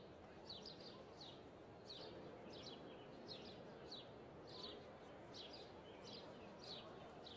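A small bird chirping over and over, short high chirps about three every two seconds, over a faint steady background hiss.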